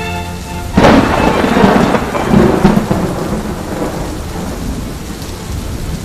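A sudden thunderclap about a second in, rumbling away over the next few seconds, over steady rain.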